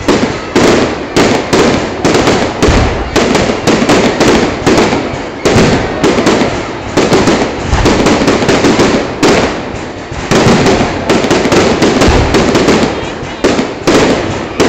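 Fireworks display: a dense, loud barrage of bangs and crackles, several a second, with only brief lulls.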